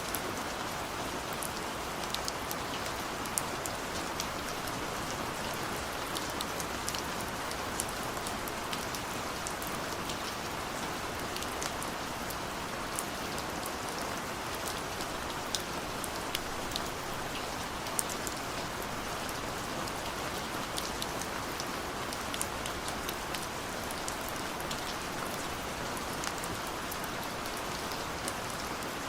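Steady rainfall, a constant hiss with many small drop ticks scattered through it.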